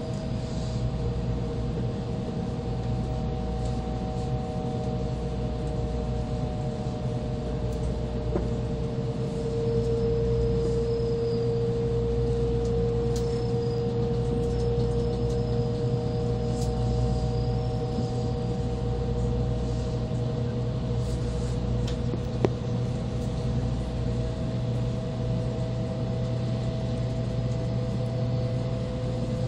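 Inside an N700-series Shinkansen car running slowly under a heavy-rain speed restriction: a steady low rumble from the running gear with a steady whine that drifts slowly in pitch. A single sharp click comes about two-thirds of the way through.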